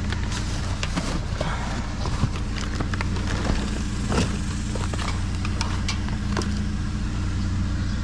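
A vehicle engine idling steadily, with scattered clicks and rustles of trash being rummaged through.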